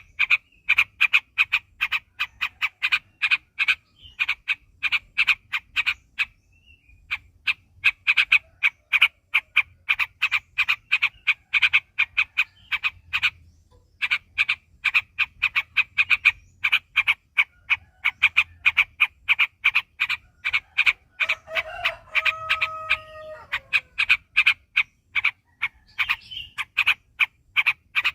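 Trucuk (yellow-vented bulbul) singing in long rolling runs of sharp, quickly repeated chirps, about five a second, broken by short pauses about 6 and 13 seconds in. From about 21 to 24 seconds in, a lower, longer held note sounds under the chirps.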